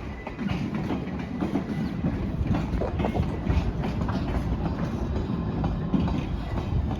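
A train passing close by, its wheels clicking steadily over the rail joints above a continuous rumble.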